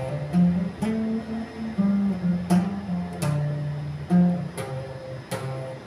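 Guitar being played: a slow run of picked notes and chords, each struck sharply and left to ring, at irregular intervals of about half a second to a second.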